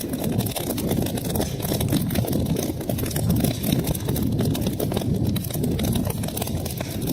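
Wood fire burning in a fireplace: a steady low rumble of flames with many small crackles and snaps.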